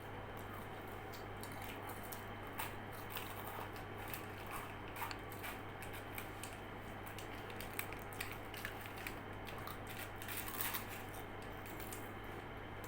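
Quiet, close eating sounds: scattered soft clicks and small squishes of a snack being chewed and its packaging handled, at irregular moments over a steady low hum.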